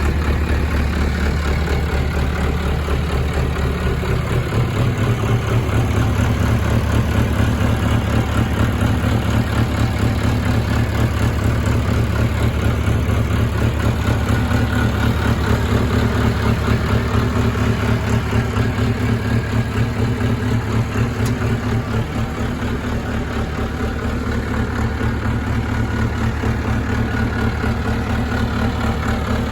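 1986 International 585 tractor's four-cylinder diesel engine running steadily, its note stepping up slightly about four or five seconds in and then holding even.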